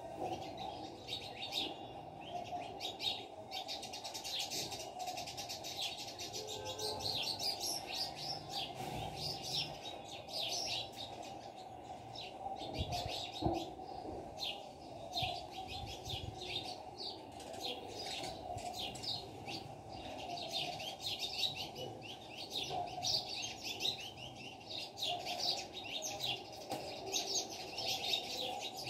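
Small birds chirping busily and without a break, over a steady low background hum.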